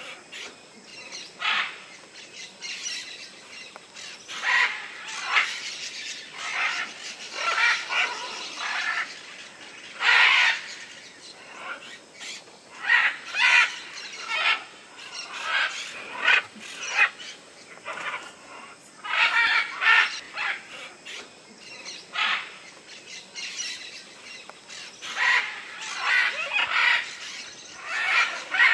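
Several birds calling in a steady stream of short, harsh squawks, often overlapping and in clusters.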